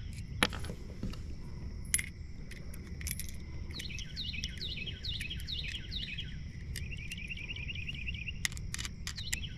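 A bird singing in the background: a steady run of short, high, descending chirps, two or three a second, over a low outdoor rumble. Several sharp clicks cut in, two loud ones in the first two seconds and a few more near the end.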